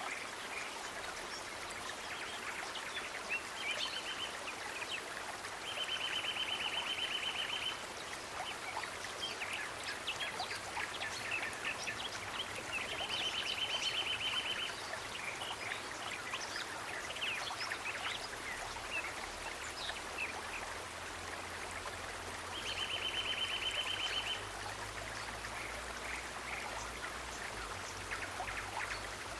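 Nature ambience: a steady rush of flowing water, with scattered short high chirps and three times a rapid, even trill about two seconds long.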